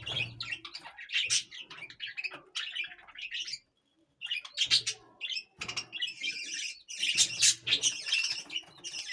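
Parrots calling in a busy, overlapping flurry of rapid high chirps, broken by a brief silence about four seconds in.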